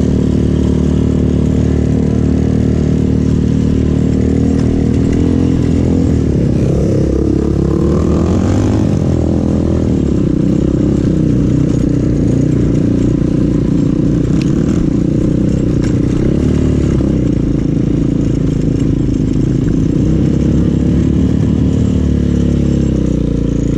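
200cc Avantis pit bike's single-cylinder engine running while riding, its pitch rising and falling with the throttle.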